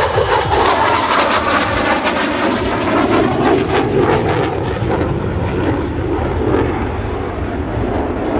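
F-16 fighter jet's engine roaring steadily as it flies past.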